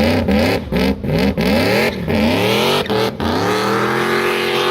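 A car engine revving hard as the car pulls away: its pitch climbs and breaks off several times in quick succession, then settles into a steadier pull with a slowly rising pitch.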